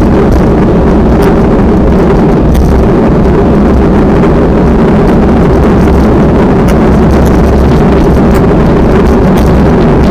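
Strong wind blasting the microphone: a loud, unbroken roar with a steady low hum underneath.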